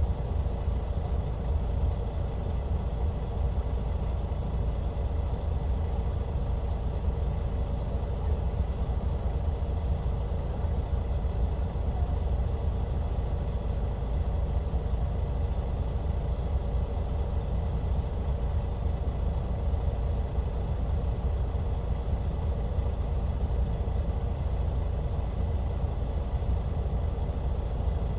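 Hyundai D6CC Powertec 380 six-cylinder diesel of a Hyundai Universe Comfort coach running at a steady engine speed, a deep constant drone with a low rumble and no revving.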